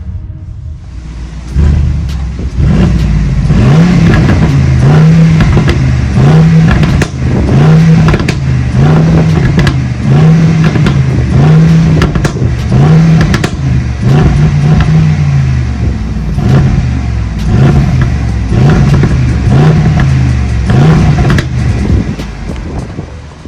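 Mercedes-AMG GLE63S's twin-turbo V8 revved in short throttle blips, about one a second. The exhaust pops and crackles throughout, the engine in its race drive mode.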